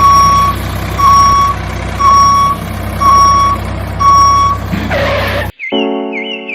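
Vehicle reversing alarm beeping about once a second, five half-second beeps over a steady engine rumble. The sound cuts off suddenly near the end, giving way to music.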